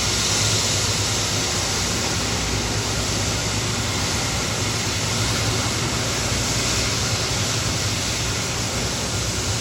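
Jet airliner engines running: a loud, steady rushing noise with a low hum underneath.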